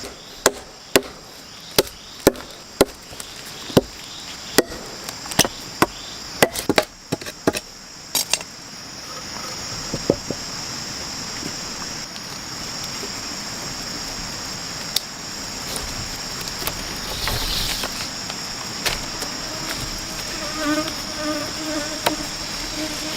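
A steady high-pitched insect chorus of rainforest crickets and cicadas. Over it come sharp knocks of chopping or striking wood, about one a second for the first eight seconds, then only a few spaced ones.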